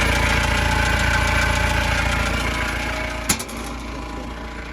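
Small Kubota engine of a Gehl 4625 SX skid steer running steadily. A sharp click comes a little over three seconds in, and the engine is quieter after it.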